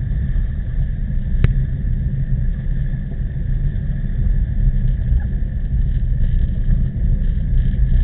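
Heavy wind buffeting the microphone of a camera riding along on a bicycle in typhoon winds, a steady deep rumble. A single sharp click comes about one and a half seconds in.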